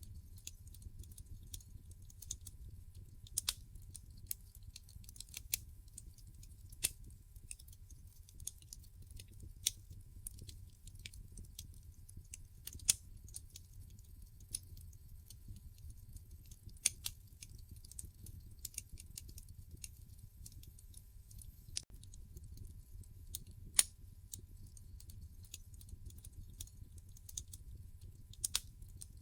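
Wood fire in a fireplace crackling: irregular sharp pops and snaps from the burning logs, a few noticeably louder than the rest, over a low steady rumble of the flames.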